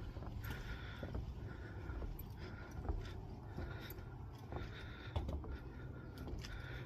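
Footsteps walking at about one step a second, each step a short scuffing crunch, over a steady low rumble of wind on the microphone.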